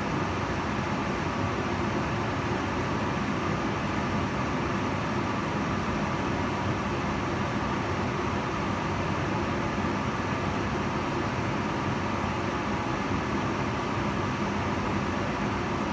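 Kitchen range hood fan running steadily: an even rushing of air with a faint steady hum in it.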